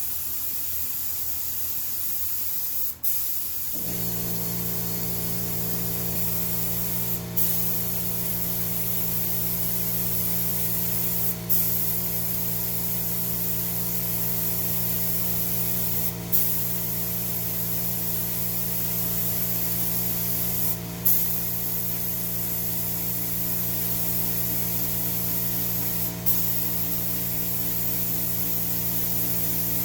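Spray gun hissing steadily while spraying coats. The hiss breaks briefly about every four to five seconds and comes back with a short burst each time. About four seconds in, a motor starts up and runs on with a steady hum.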